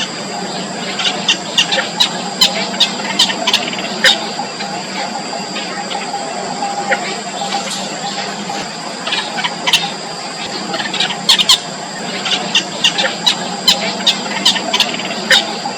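Yellow bittern chicks in the nest giving many short, high, squeaky calls in irregular clusters, over a steady high-pitched whine.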